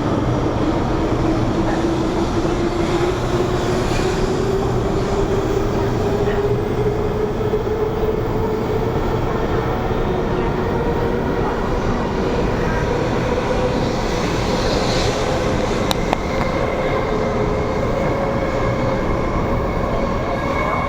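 Taiwan High Speed Rail bullet train running with a steady rumble, its motor whine rising slowly and evenly in pitch as the train gathers speed. One sharp click about sixteen seconds in.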